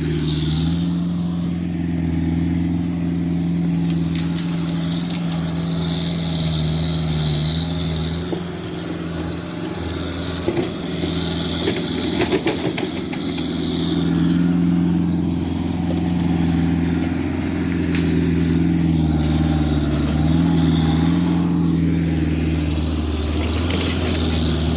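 An engine running continuously, its pitch dipping and recovering several times as under changing load, with a few metallic clanks about ten to thirteen seconds in.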